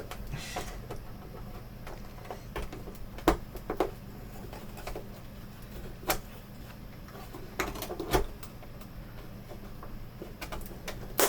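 Plastic monitor casing being pried apart with prying tools: scattered sharp clicks and light scraping, with a short cluster of clicks about eight seconds in and a louder snap at the very end.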